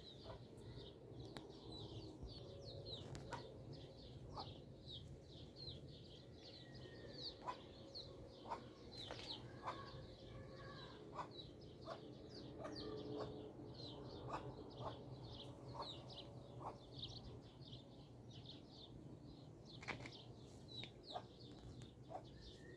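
Birds chirping in quick, continuous short notes, with a few faint knocks scattered through.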